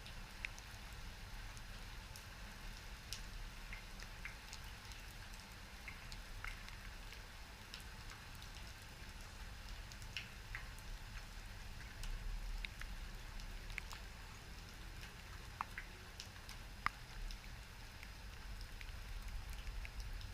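Rain falling, with scattered individual drops ticking sharply at irregular moments over a steady low rumble.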